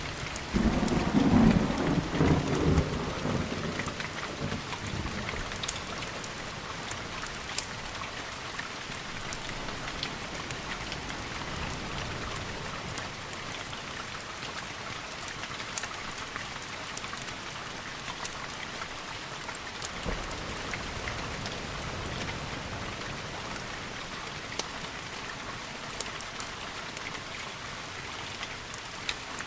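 Steady rain with a clap of thunder just after the start that rumbles loudly for a couple of seconds and dies away, leaving the rain hiss with scattered sharp ticks.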